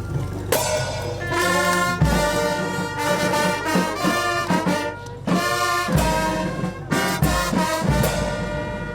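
Brass band music, with trumpets and trombones playing phrases over a few heavy low beats.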